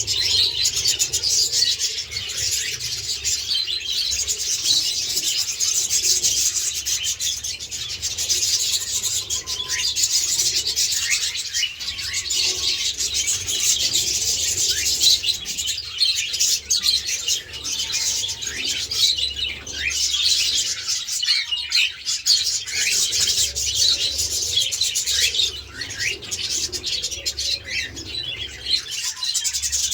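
A flock of small pet parrots, budgerigars and cockatiels, chattering and chirping without a break, many birds calling over one another in quick, high chirps.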